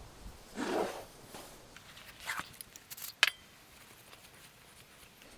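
Workshop handling while a wheel hub's bearing bore is cleaned out: a brief rubbing sound a little under a second in, then a few light metallic clinks, the sharpest about three seconds in.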